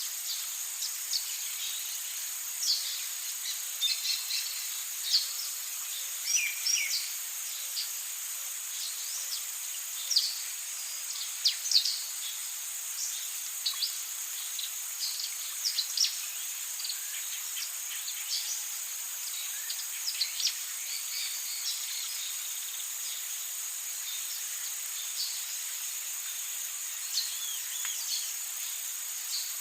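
Amazon rainforest ambience: a steady, high-pitched drone of insects, with many short bird chirps and calls scattered over it, busiest in the first half.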